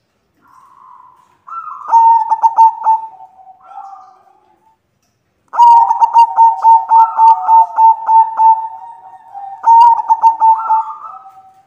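White zebra doves (perkutut putih) cooing. A short phrase of rapid staccato coos comes a second or two in, and a longer run of coos and drawn-out notes follows from about halfway.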